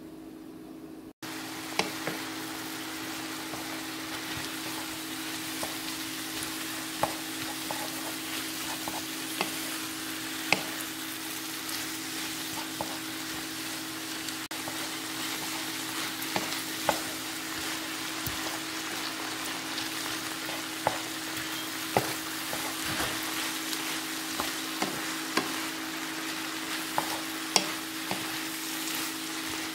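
Stir-fried noodles and vegetables sizzling in a frying pan as they are stirred and tossed with a wooden spatula. The spatula knocks and scrapes against the pan at irregular intervals. The sizzle starts about a second in.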